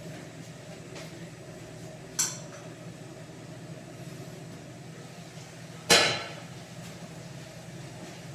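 Two sharp clinks of cookware or utensils, a lighter one about two seconds in and a louder, ringing one about six seconds in, over a steady low hum.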